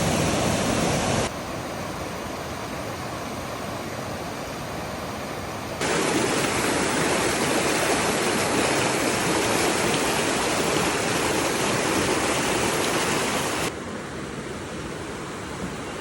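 Steady rushing of flowing water, in stretches that switch abruptly between louder and quieter about a second in, near six seconds and near fourteen seconds.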